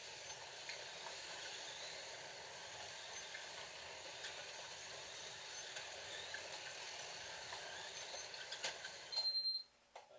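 Scalextric slot cars' small electric motors whirring steadily as the cars race around the track. About nine seconds in, the sound cuts off suddenly and a short high electronic beep follows: track power cut after a crash.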